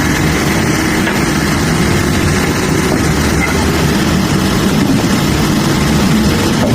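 A heavy engine running steadily as a low, even drone.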